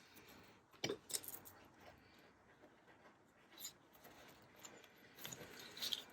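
Paper and cards handled on a desk: a few light taps and faint rustling, growing busier near the end.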